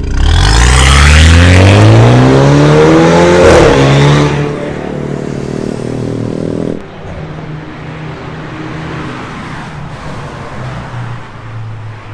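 BMW F10's turbocharged engine revving hard through a full stainless steel aftermarket exhaust with custom downpipe: the pitch climbs steeply for about three and a half seconds, then falls away. It settles into quieter, steady running after about seven seconds.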